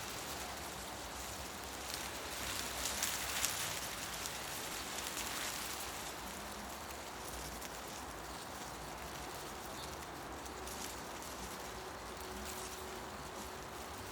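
Wind blowing through forest trees, the leaves rustling as a steady hiss. The rustle swells in a gust about two to five seconds in, then settles back.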